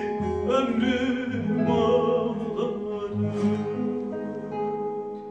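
Closing bars of a Turkish folk song played on bağlama and guitar, with plucked notes ringing on and the sound fading out near the end.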